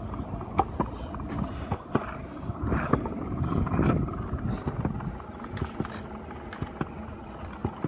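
Footsteps of people walking, a step about every half second, over a low steady rumble.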